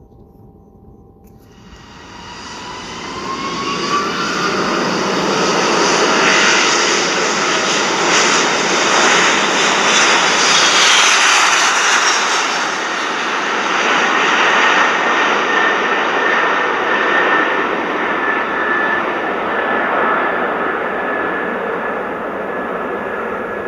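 Loud engine noise with a high whine, building up over a couple of seconds about two seconds in, then holding steady.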